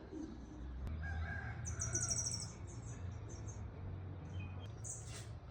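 Small birds chirping in short high notes, with a rapid trill about two seconds in, while a rooster crows faintly in the distance around a second in. A low steady rumble runs underneath.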